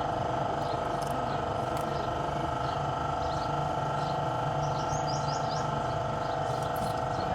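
A steady machine hum that holds a few fixed tones without change, with small birds chirping over it in a cluster about five seconds in.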